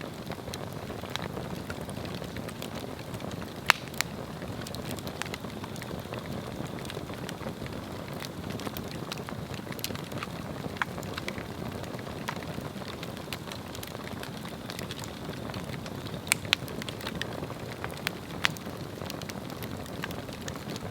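Swedish torch (slit upright log) burning: a steady rushing flame with scattered sharp crackles and pops, the loudest a few seconds in and a cluster near the end.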